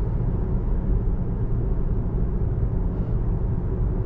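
Steady road and tyre rumble heard inside the cabin of a 2024 Tesla Model 3 Long Range travelling at freeway speed.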